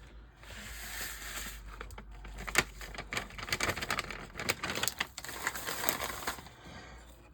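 Cooking sounds at a pot of mashed potatoes: an irregular run of sharp clicks, scrapes and crackling that dies down about six and a half seconds in.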